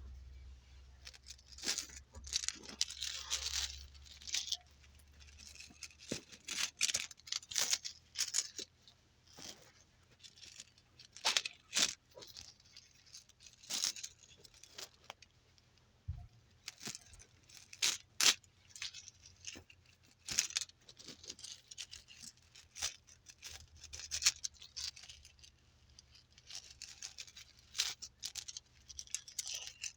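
Close-miked ASMR trigger sounds: irregular soft crackles, clicks and scratchy rustles in quick uneven clusters, with no steady rhythm.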